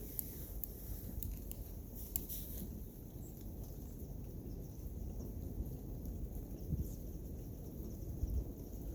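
Wind buffeting the microphone as an uneven low rumble, with a few faint, sharp crackles in the first couple of seconds.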